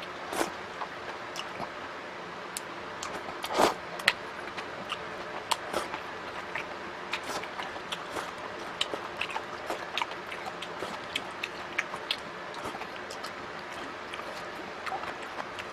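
Close-up eating sounds: irregular wet chewing clicks and small crunches, with a louder smack about three and a half seconds in. A faint steady hum sits underneath.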